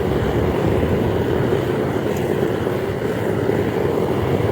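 Propane burner of a homemade metal-melting furnace running steadily, a constant rushing noise with no breaks.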